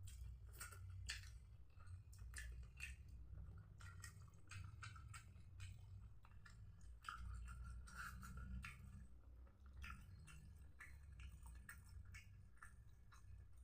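A person chewing food close to the microphone, here smashed fried tempe with sambal: faint, irregular wet mouth clicks and smacks, with a steady low hum underneath.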